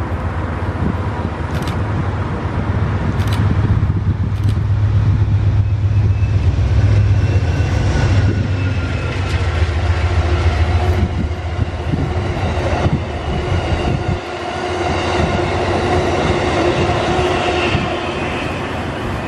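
Amtrak passenger train passing close by: a heavy low rumble as the head end goes past, then the passenger cars' wheels clattering over the rails with a steady high ringing. The sound eases off near the end as the last cars go by.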